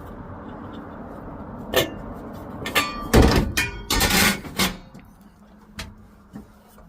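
Metal clunks and thuds as the engine cover of a 1971 Ford C600 cab-over truck is opened to get at the engine. The loudest knocks come around three and four seconds in, before it goes quieter with a few light clicks.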